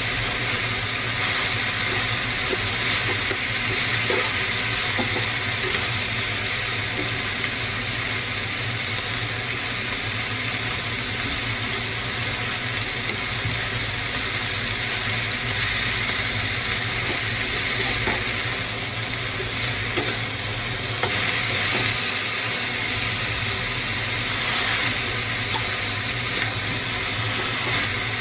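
Water spinach and buffalo meat sizzling as they are stir-fried in a pan, tossed with chopsticks, with a few light clicks against the pan and a steady low hum underneath.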